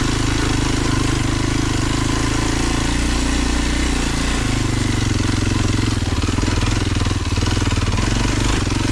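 Kawasaki KLX230 dual-sport motorcycle's single-cylinder four-stroke engine running steadily at low speed on a trail ride, its note shifting about four and a half seconds in.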